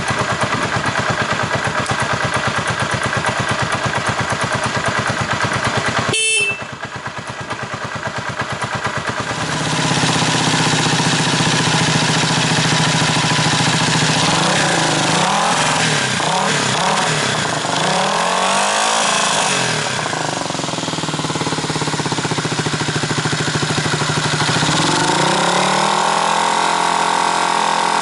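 Honda CB250RS-Z's air-cooled single-cylinder engine running through an aftermarket muffler, ticking over with a fast, even beat. About six seconds in there is a sharp click and the sound drops for a few seconds. It is then revved repeatedly, the pitch rising and falling with each blip, and held at higher revs near the end.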